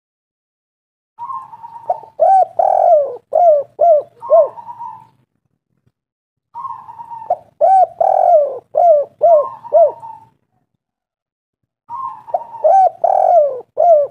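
Spotted dove (tekukur) cooing: three calling phrases, each a short rolling burr followed by a run of bending coos, with silent gaps of a couple of seconds between them.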